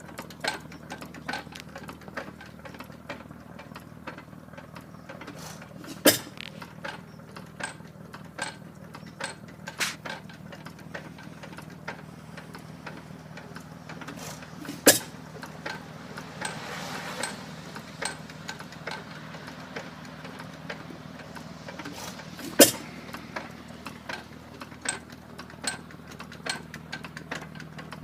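Gray Motor Co. 4 hp Thoroughbred hit-and-miss stationary engine running light. It fires with a single sharp bang about every eight seconds, three times, and coasts between firings with a steady hum and light, quick clicking from its valve gear and governor.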